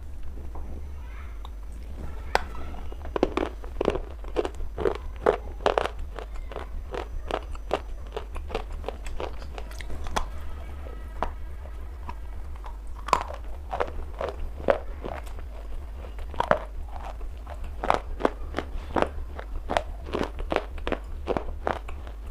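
Wetted black slate stone being bitten and chewed close to the microphone: an irregular run of sharp crunches and crackles, several a second at times, over a steady low hum.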